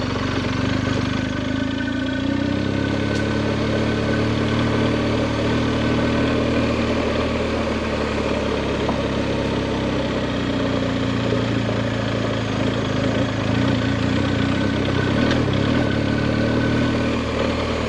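BMW adventure motorcycle engine running steadily at low revs, its pitch drifting slightly, over a steady haze of wind and tyre noise.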